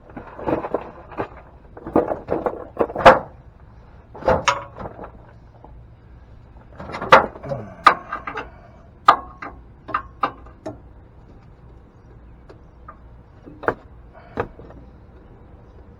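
Irregular knocks, clicks and scrapes of a filter wrench and hands working on an oil filter under a pickup truck, with a cluster of sharp clanks in the first few seconds and scattered knocks later.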